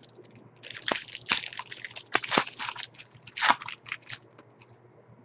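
Trading cards and their packaging being handled, crinkling and rustling in quick crackly bursts with a few sharp clicks for about three and a half seconds.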